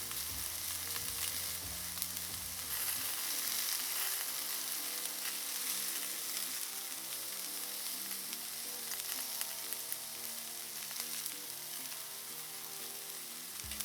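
Bacon-wrapped mallard breasts sizzling over an open wood fire, a steady hiss with small pops and crackles.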